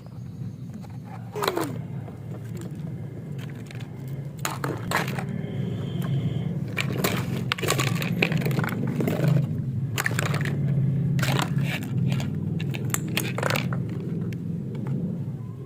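Small hard plastic pieces being handled and set down, giving irregular clicks and clatters over a steady low hum.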